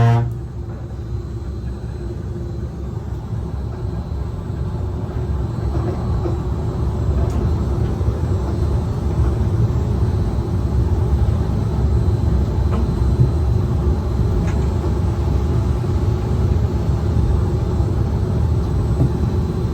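Disneyland Monorail Mark VII train running along its beam, heard from inside the driver's cab: a steady low rumble of the running gear with a faint steady hum, growing louder over the first several seconds and then holding.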